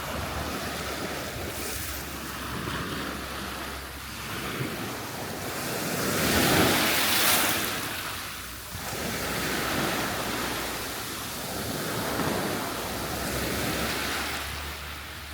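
Surf breaking and washing up on the beach in slow swells, loudest about six to eight seconds in, with wind rumbling on the microphone.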